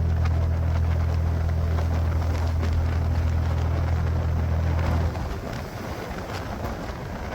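Steady rushing wind and road noise from riding on a highway, with a low steady hum underneath that stops abruptly about five seconds in.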